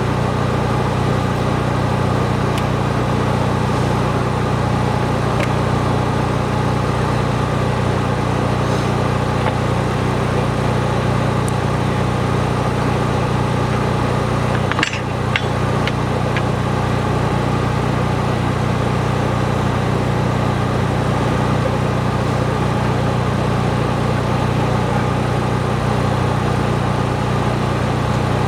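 An engine running at a steady idle, with a constant low drone throughout and a few faint clicks about halfway through.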